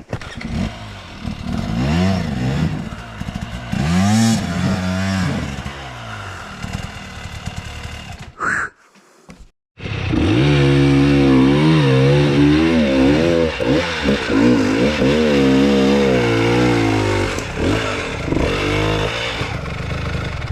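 Dirt bike engine revving up and down in repeated bursts under load on rough off-road terrain. It cuts out for about a second near the middle, then runs loud again with the revs rising and falling.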